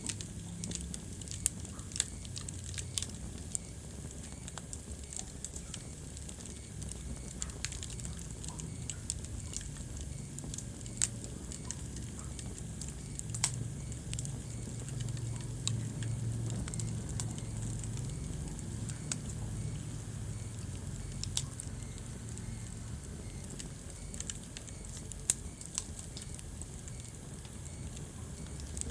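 Wood fire burning in a fireplace, crackling with irregular sharp pops and snaps over a low steady rumble of the flames. The low rumble swells a little midway.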